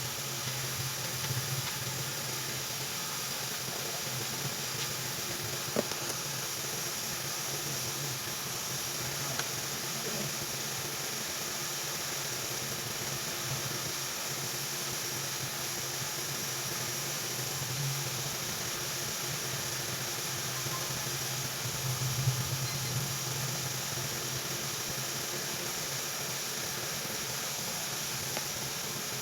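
Steady hiss of blowing air with a low hum underneath, from a hot air rework station used to reball a phone's memory chip. A couple of brief clicks break in, one early and one past the middle.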